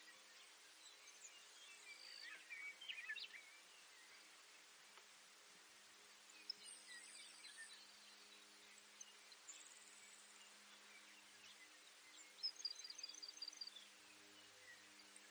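Baird's sparrow singing faintly: scattered high chirps near the start, thin high buzzy notes in the middle, and a short rapid trill of even notes near the end, over a steady low hum of background noise.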